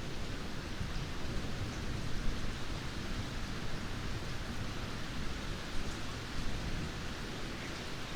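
Steady rainfall, an even continuous hiss, with a low rumble of thunder dying away in the first few seconds.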